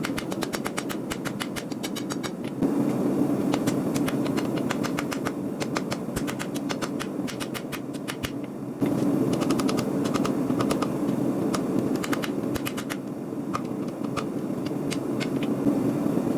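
Rapid, even hammer blows on steel, several a second, over a continuous low roar, with a few short pauses between runs. The roar grows louder about three seconds in and again near the middle.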